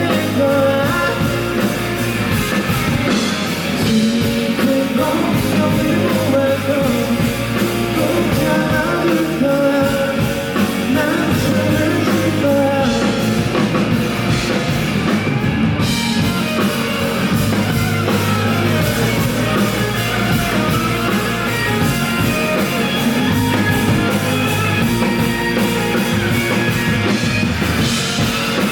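Live rock band playing loudly with electric guitars, bass and drums, recorded from the audience, with some singing mixed in.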